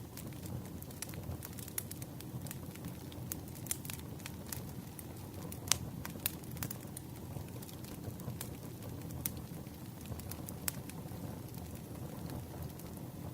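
Campfire burning: a steady low rumble of flames with sharp, irregular crackles and pops of wood, the loudest pop about halfway through.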